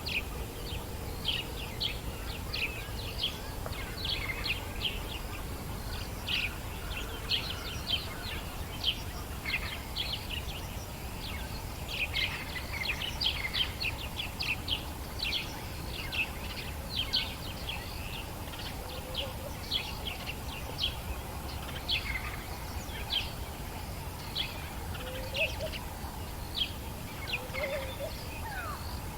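Dawn chorus of birds in African bush: many short, high chirps overlapping at a quick, uneven rate, with a few lower, short rising calls now and then in the second half, over a steady low background rumble.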